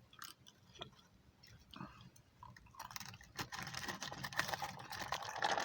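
A person eating close to the microphone: scattered small clicks, then a dense crackling from about three seconds in.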